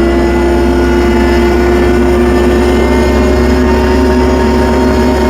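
Tractor engine running at a steady speed, with a held drone that does not change, as the tractor reverses in snow on tire chains.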